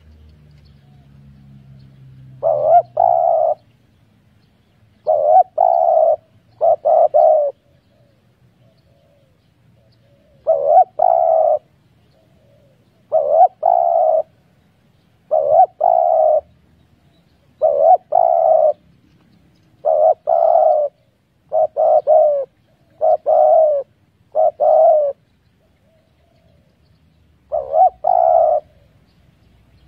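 Spotted dove cooing over and over: about a dozen short, hoarse coo phrases, each about a second long and split into two or three notes, coming every two to three seconds.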